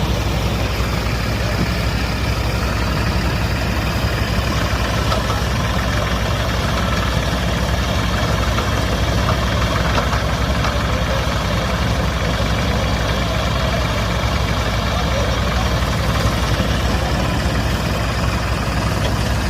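Farmtrac 60 tractor's diesel engine running steadily, with a low, even throb and no change in speed.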